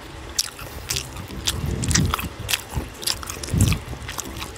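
A person chewing steamed siomai close to the microphone, with many short wet clicks and smacks of the mouth.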